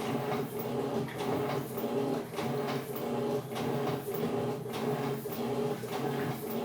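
Electrolux LTE12 top-loading washing machine agitating: a motor hum that keeps cutting in and out, with swishes about two or three times a second as the agitator churns the load back and forth.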